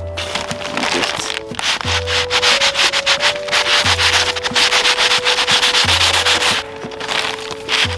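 Wooden arrow shaft being sanded with quick back-and-forth rubbing strokes, several a second, pausing briefly about two-thirds of the way through.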